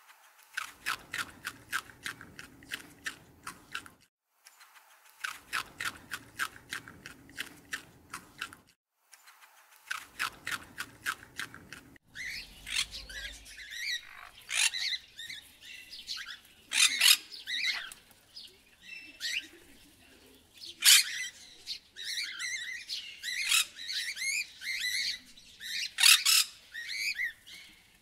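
Three bouts of rapid, high clicking chatter, each a few seconds long, then a busy run of bird squawks and chirps, the loudest squawks sliding sharply down in pitch.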